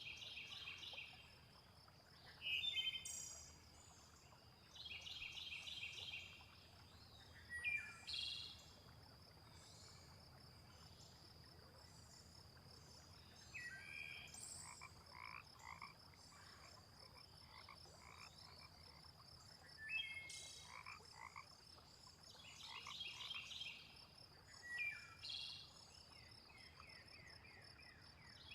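Frogs croaking in short pulsed trains that come back every few seconds, mixed with scattered bird chirps and a steady high insect trill underneath.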